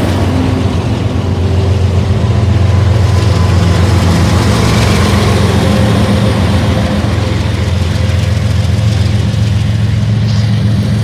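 Diesel-electric freight locomotives passing close with their engines running, a loud, steady low drone. Near the end the intermodal container cars roll by as the locomotives move off.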